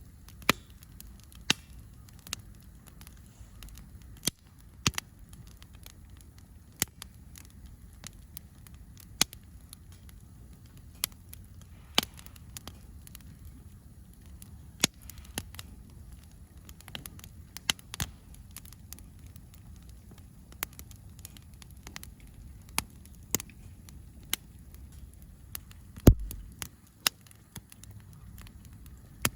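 Wood campfire crackling: sharp, irregular pops about once a second over a low steady rumble, with one louder pop and thump about 26 seconds in.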